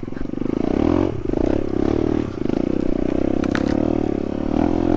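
Trail motorcycle engine running at low speed, its pitch rising and falling as the throttle is worked over rough ground, with a couple of sharp clicks or knocks about three and a half seconds in.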